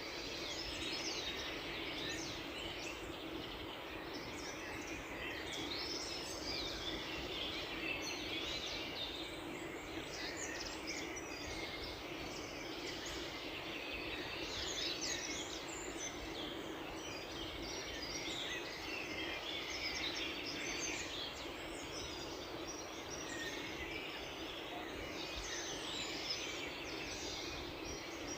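Many songbirds chirping and singing at once, overlapping, in a dawn chorus, with a steady low background hum beneath.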